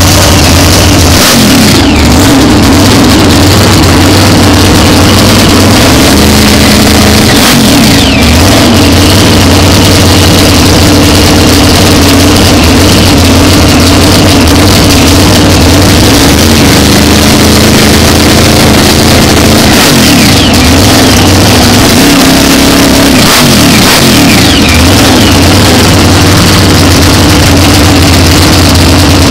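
Supercharged engine of a modified street car running very loud, revved up and down several times.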